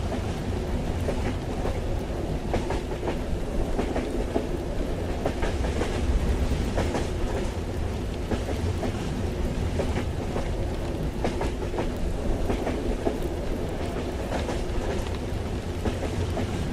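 Train running, heard from inside a railway carriage: a steady low rumble with irregular clicks and clacks from the wheels on the track.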